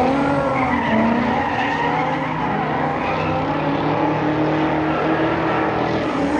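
Ford Mustang drifting: its engine revving up and down, with tyres skidding.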